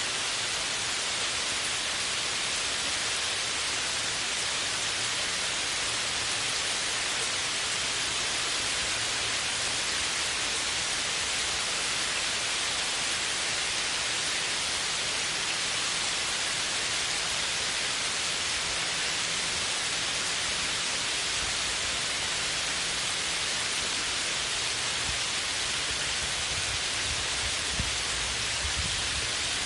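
Steady, dense rain making an even hiss, with a low rumble building near the end.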